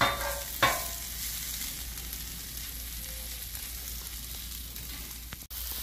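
Green beans sizzling steadily as they fry on a Blackstone flat-top griddle. Twice at the start, a metal scraper or spatula clinks against the steel griddle with a short ring.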